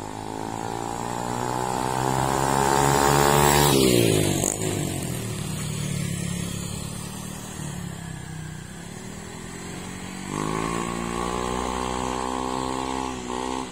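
A small motorbike engine accelerating hard toward and past the listener, its pitch climbing for several seconds, then dropping sharply as it goes by, and fading away. About ten seconds in, another engine starts a second climbing run that stops suddenly near the end.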